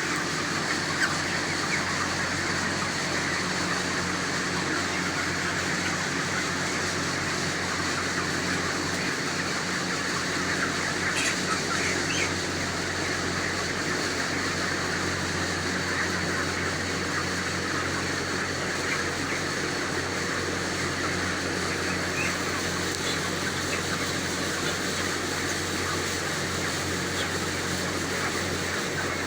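A large flock of month-old chickens chirping and clucking all at once, as a steady dense chatter, over a constant low mechanical hum.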